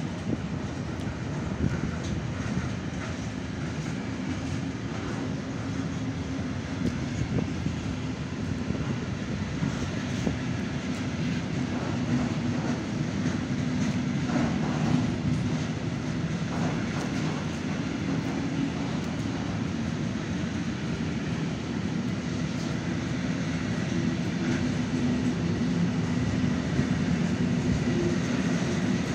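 Intermodal freight train of wagons carrying lorry semi-trailers rolling past: a steady rumble of wheels on rail, with light clicks scattered through it.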